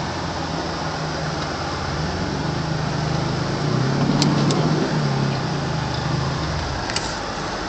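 Inside the cabin of a Subaru Outback with a 2.5-litre boxer engine, pushing through deep snow: the engine note rises and falls, swelling to its loudest around the middle, under a steady loud rush from the defroster fan. A few short sharp clicks come in the second half.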